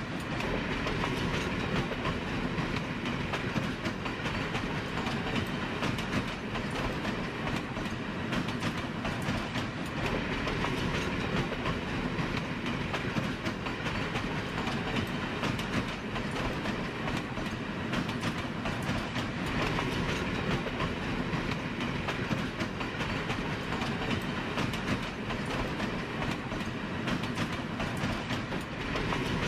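A train running steadily along the track, with the clickety-clack of wheels over rail joints.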